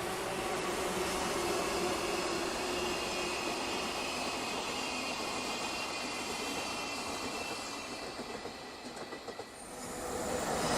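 A train running past on the rails, steady wheel-and-rail noise with a faint whine; it fades a little after eight seconds in, then rises again near the end.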